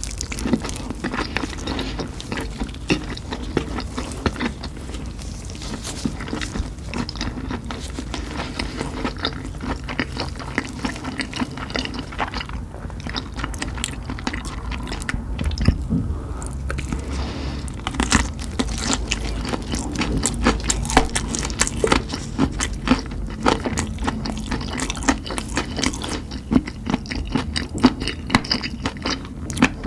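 A person chewing and biting into spicy chicken: a continuous, irregular run of sharp mouth clicks and crunches.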